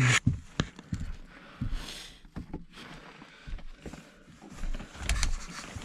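Handling noises: scattered knocks and clicks with a brief rustle, and a louder knock about five seconds in.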